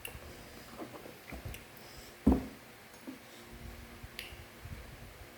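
Handling noises: a few faint clicks and one dull thump about two seconds in.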